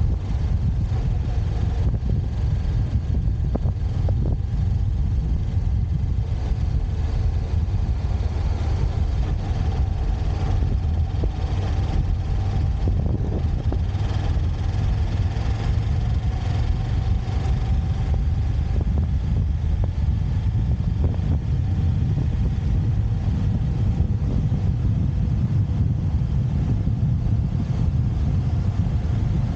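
Motorcycle being ridden, heard from a camera on the rider: a steady low rumble of engine, wind and road noise.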